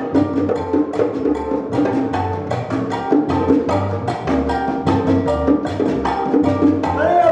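Live Latin band playing an instrumental passage: a steady rhythm of sharp, wood-block-like percussion strikes over a bass line and chords.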